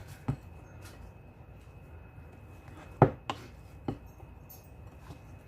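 Homemade bread stuffing of torn rolls, milk, raisins and ground beef being mixed in a too-small bowl: quiet handling with a few sharp knocks, the loudest about three seconds in.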